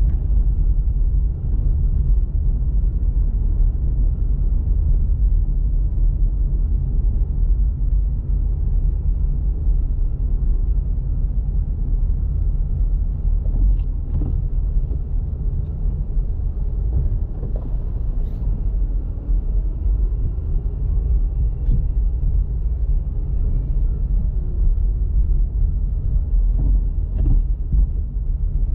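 A car driving, with a steady low rumble of engine and road noise and a few faint knocks.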